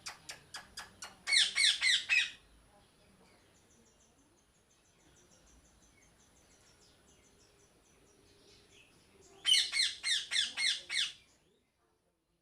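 Parrot squawking in two short bursts of rapid, harsh repeated calls, one about a second in and one near the end. A few sharp ticks come before the first burst, and faint high chirping of other birds comes between the bursts.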